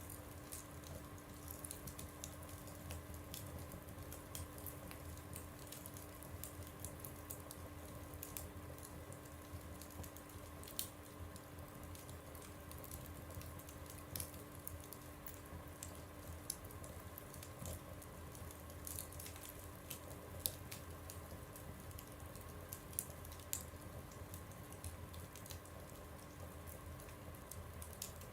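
Wood fire burning in a stove, crackling with irregular small pops and snaps over a faint steady hum.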